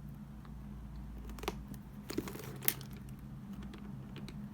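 Light handling noise: soft rustling and a few sharp clicks over a low steady hum.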